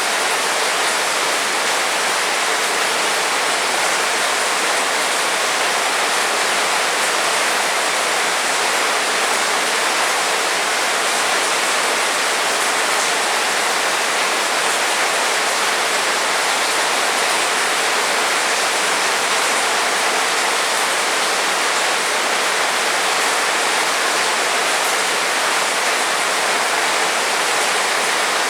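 Heavy rain falling, a dense, steady hiss that holds at the same level throughout.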